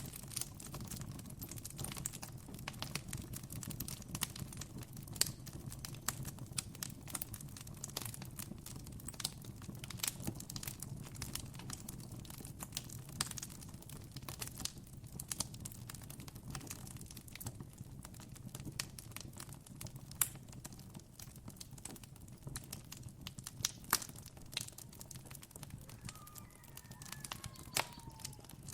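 Campfire crackling steadily with many irregular sharp pops, over a low steady rumble. A short bird call comes in near the end.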